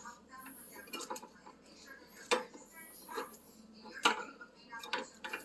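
Sharp plastic clicks and light clinks, several in a few seconds and loudest about two and four seconds in, as wire-harness connectors are handled and pushed back onto an oven's control board.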